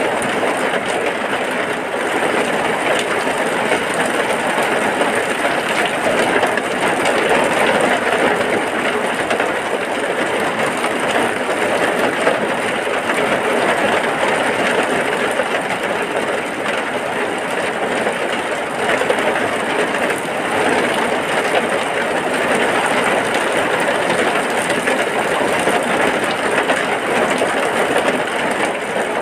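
Heavy rain falling steadily: a dense, even noise with no breaks or changes.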